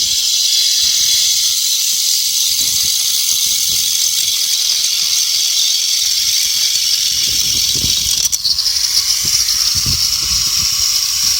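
A cutting tool working a metal wheel rim: a steady, high hiss of metal being cut. A little past eight seconds in it breaks off briefly and then resumes slightly higher.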